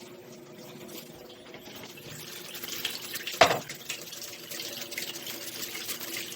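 Electrolux ELAV-8450 washing machine filling with water: water running into the tub, growing louder over a steady hum, with one sharp knock about three and a half seconds in.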